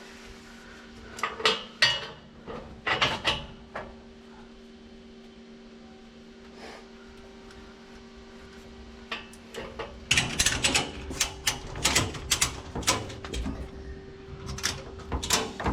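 Metal clinks and clanks of tie-down hooks and chains, then a fast run of clicks from a ratchet strap being cranked tight about ten seconds in, over a steady low hum.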